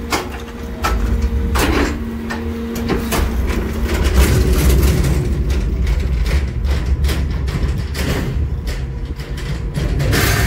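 New Way rear-loader garbage truck's diesel engine running with a heavy low rumble, a steady whine over it for the first three seconds or so, and scattered clanks and knocks; the engine swells in loudness about four seconds in.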